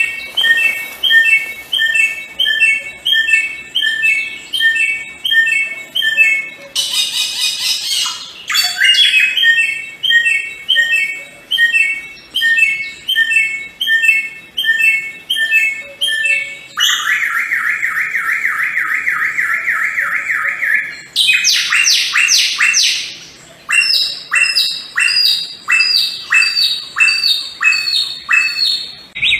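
Samyong bird song: loud, high-pitched runs of rapidly repeated notes, the phrase changing abruptly every few seconds, from quick chip series to a fast trill and then to steady sweeping whistles.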